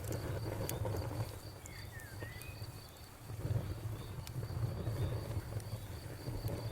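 Campfire burning with a low steady roar and scattered sharp crackles and pops. A cricket chirps in a fast even pulse throughout, and a short gliding chirp is heard about two seconds in.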